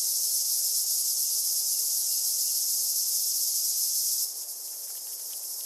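Cicadas singing in the midday heat: a steady, dense, high buzz that drops in level about four seconds in.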